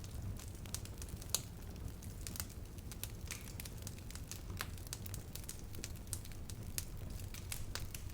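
Campfire burning, the wood crackling and popping in sharp irregular snaps, with the low steady rush of the flames beneath. The loudest pop comes about a second and a half in.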